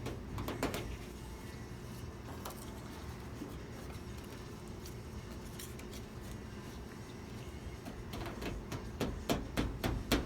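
Light metallic clinks and taps from hand tools and loose fender bolts on a pickup's steel body panels, several in quick succession near the end, over a low steady hum.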